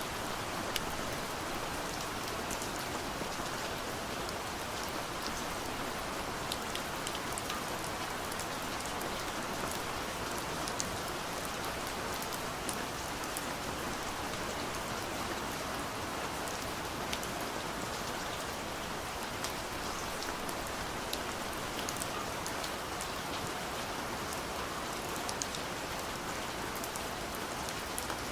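Gentle steady rain on a window, a soft even patter with scattered single drops ticking against the glass.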